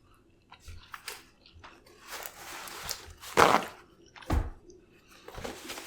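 Close-miked eating sounds: a few short chewing and lip-smacking noises, the loudest about three and a half seconds in and again just after four seconds.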